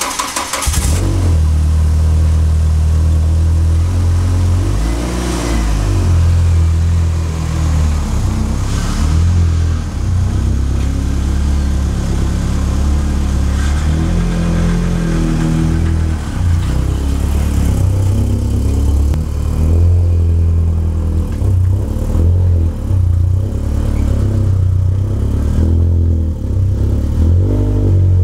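Volkswagen Golf Mk2 GTI's four-cylinder petrol engine catching about half a second in. It then runs with a low, steady exhaust note that rises and dips as the car pulls away and manoeuvres.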